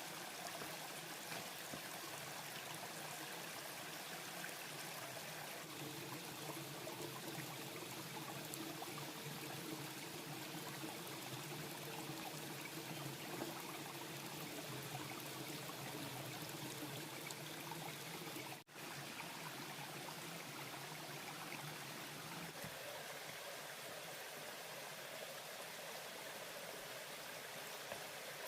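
Stream water running steadily over rocks, a continuous rushing and trickling.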